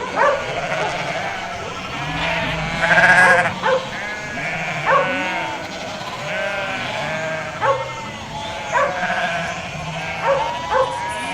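A flock of domestic sheep bleating, many calls overlapping, some low and some high-pitched, with the loudest burst of bleats about three seconds in.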